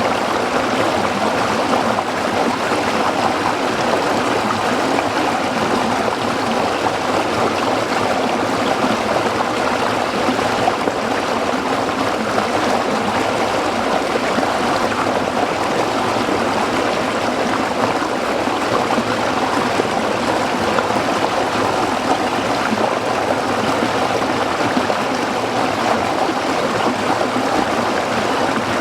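Small stream flowing and splashing over rocks: a steady, even babbling.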